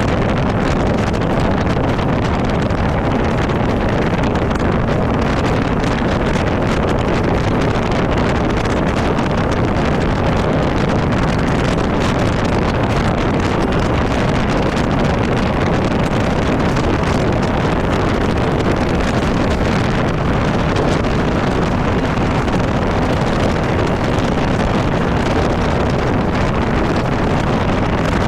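Heavy wind buffeting the microphone over the steady run of a Ranger bass boat's outboard motor at cruising speed.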